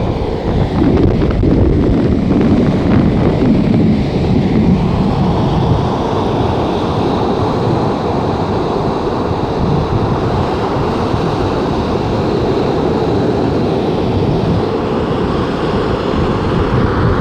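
Storm surf breaking continuously, with strong wind blowing hard on the microphone: a loud, steady rush, heaviest in the low end.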